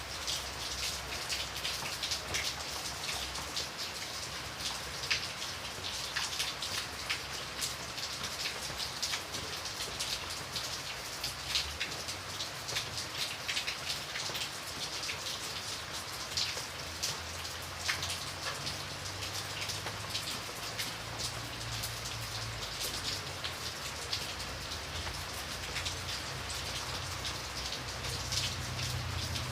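Steady rain, with many sharp single drop hits on a surface over a continuous hiss. A low rumble sits underneath, stronger from about halfway through.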